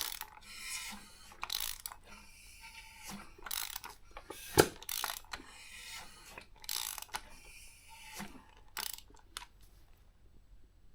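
Moto Morini 3½ V-twin engine being turned over by hand after a new cam belt is fitted, a check that nothing fouls: a run of irregular mechanical clicks and short rasps, with one sharp click about halfway through, dying away near the end.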